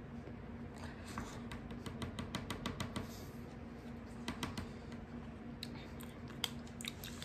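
Chewing a mouthful of mac and cheese close to the microphone: a run of soft, quick wet mouth clicks, thickest in the first half, over a faint steady hum.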